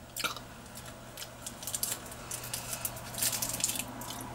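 Close-up mouth sounds of chewing a chalky, powdery lemon candy tablet: an irregular run of small crackly clicks, in two busier spells.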